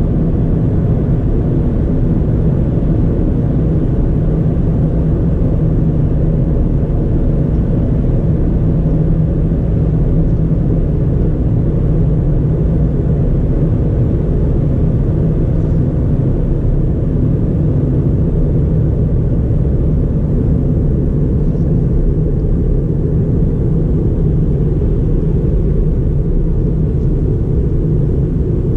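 Ford Fiesta's 1.4-litre four-cylinder engine and tyre rumble heard from inside the cabin while the car drives at a steady pace, a low even drone with a steady hum.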